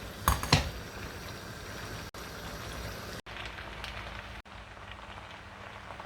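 Chicken, vegetables and pasta sizzling and bubbling in sauce in a frying pan, a steady hiss, with two sharp knocks near the start and three brief gaps partway through.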